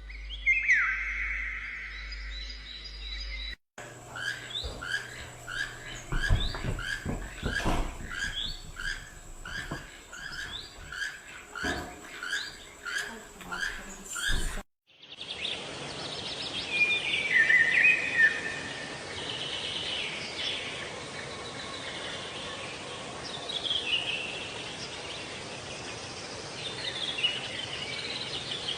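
Bird calls in three spliced recordings. First a single falling call, then a bird repeating one short call over and over, about one and a half a second, for some ten seconds. After a sudden cut, many birds chirp together.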